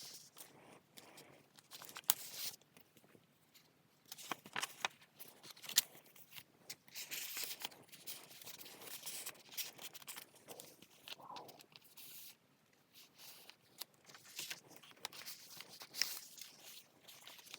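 Paper rustling and crinkling as the pages of a handmade paper junk journal are turned and handled, with a few sharp taps and clicks among them.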